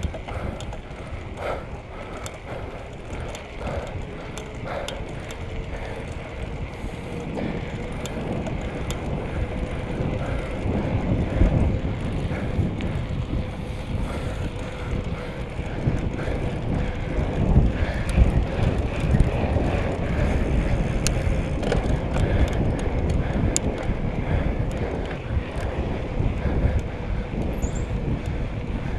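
Wind buffeting the microphone during a bicycle ride, over a low rumble of tyres on the road, with scattered small clicks and rattles from the bike. The rumble grows louder about a third of the way in.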